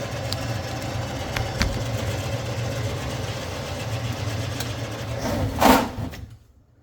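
Electric drain-cleaning cable machine running with a steady motor hum and a few light clicks from the cable, feeding cable into a drain line clogged with grease. Near the end there is a loud short clatter, and then the machine stops.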